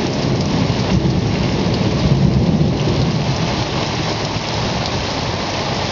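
Heavy rain pouring down in a thunderstorm, with a low rumble of thunder that swells about two seconds in.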